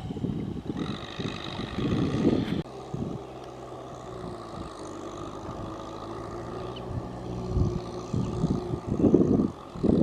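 Tractor engine running steadily, with rough, louder noise over it at the start and again near the end.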